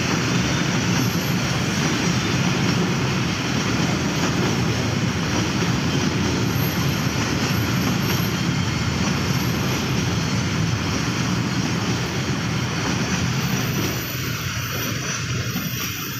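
Train passing close by, a steady rumble of wheels on the rails that eases off slightly about fourteen seconds in.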